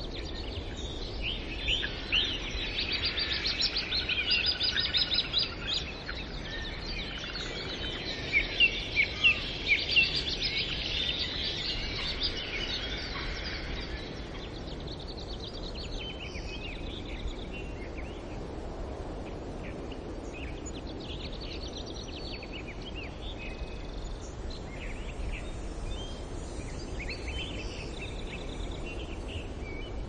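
Birds chirping and calling in quick runs of high notes over a steady background hiss. The calling is loudest and densest in the first half, then thins to scattered, fainter chirps after about fourteen seconds.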